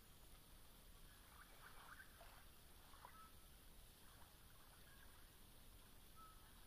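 Near silence with a faint steady hiss and a few faint, short bird calls scattered through.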